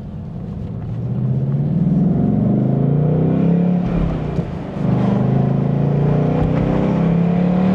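2024 Mustang Dark Horse's 5.0-litre Gen 4 Coyote V8 under acceleration, its exhaust heard through the open windows: the note climbs over the first couple of seconds, dips briefly just past halfway, then pulls hard again.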